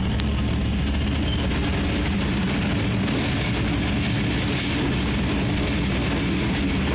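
Train running along the track, a steady rumble with no breaks.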